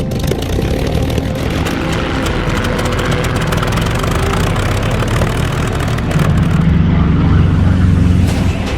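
Propeller aircraft's piston engine running, growing louder about six seconds in and easing off near the end.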